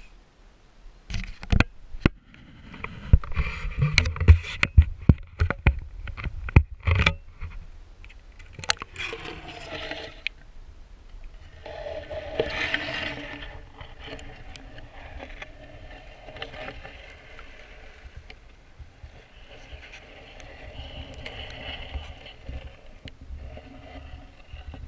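Muffled knocks and scraping against a GoPro's waterproof housing as it is moved about in pond water: a cluster of sharp knocks in the first seven seconds, then softer swishing of water.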